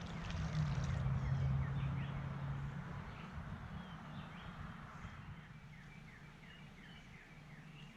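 Songbird calling in series of short, quickly descending chirps, over a low steady hum that fades out within the first three seconds.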